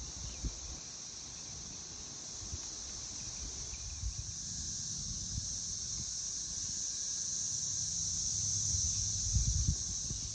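Chorus of cicadas: a steady, high, shrill drone that swells gradually louder toward the end, with a few low bumps near the end.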